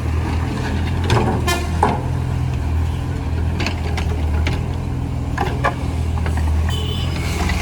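Mini JCB digger's engine running steadily, with a few sharp knocks and clanks from the machine's working parts.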